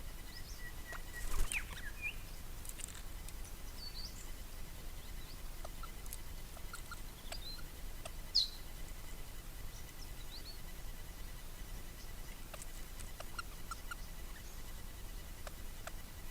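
Birds giving scattered short chirps and quick whistled notes, with faint ticks between them. A louder sharp sound comes about a second and a half in.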